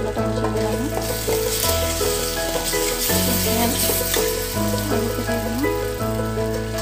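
Onion-garlic spice masala sizzling as it fries in a steel kadai, stirred with a spoon. Background music with a steady bass line plays throughout.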